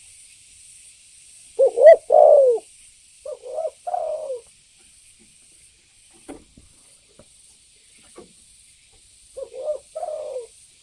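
Spotted dove (tekukur) cooing: three short phrases of a few low coos each, about two seconds in, about four seconds in and near the end. It is a lure call meant to set other doves calling.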